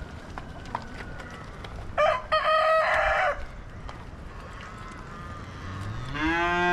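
A rooster crows once about two seconds in. Near the end a cow moos, the call rising in pitch and then holding.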